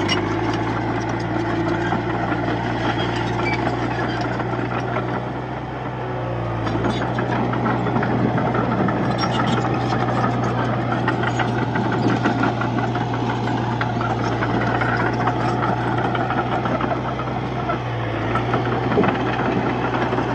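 Komatsu D31P bulldozer's diesel engine running steadily with a clattering sound, easing off briefly about six seconds in and again near the end.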